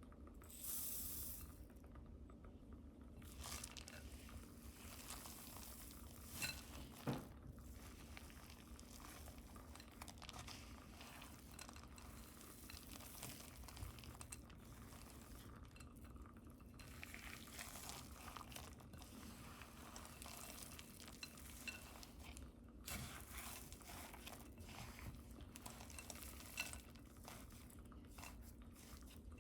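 Quiet stirring and handling in a mixing bowl, with a utensil now and then clicking against the bowl or dishes.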